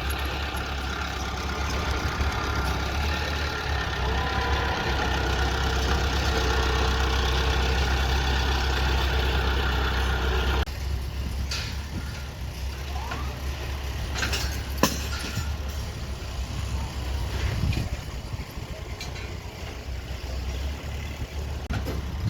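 Engine of a heavy construction machine running steadily. About ten seconds in the sound cuts off abruptly, leaving a quieter low rumble with scattered knocks and clicks, one sharp knock the loudest.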